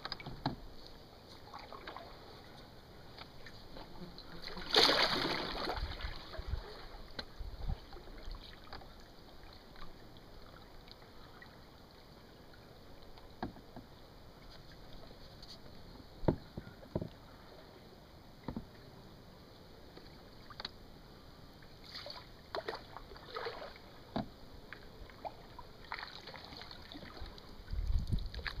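Canoe on moving water: faint water noise with scattered small knocks and splashes of paddling, and one louder splash about five seconds in.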